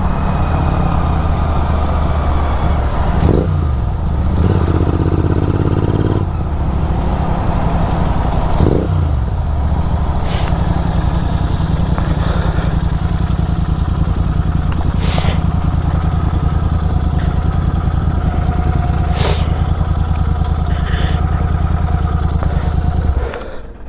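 Superbike engine running at low speed through an aftermarket SC Project exhaust, with a couple of short dips and rises in pitch, then switched off just before the end.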